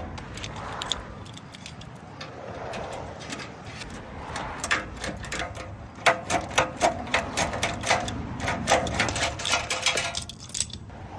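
Rapid irregular metallic clicks and clinks of tools working on an exhaust pipe, running for about six seconds from a little before the middle.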